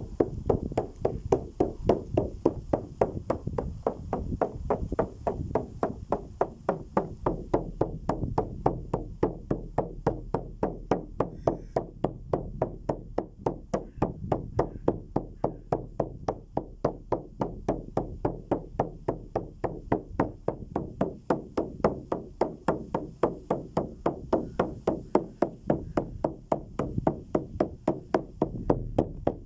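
A steady percussion beat: a dry knock struck about three times a second, kept up evenly.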